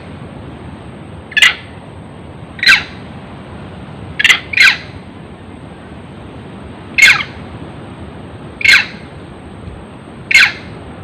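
Short, sharp animal calls, a squawk-like cry repeated about every second and a half, seven in all with a quick double near the middle, over a steady background hiss.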